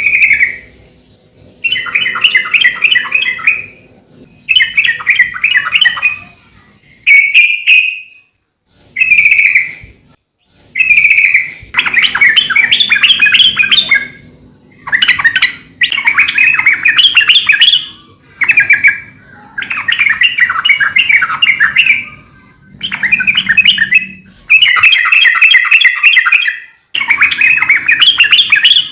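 Yellow-vented bulbul (trucukan) singing lively, bubbly chattering phrases of a second or two each, repeated with short pauses between, mixed with a few single clear whistled notes.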